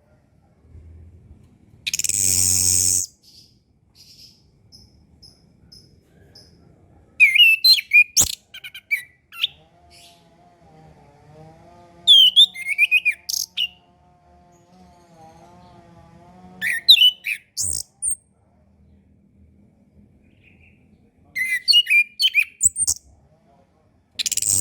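Chestnut-capped thrush (anis kembang) singing four short phrases of quick, varied chirps and whistles, a few seconds apart. A harsh, buzzy hiss lasting about a second comes about two seconds in and again at the end.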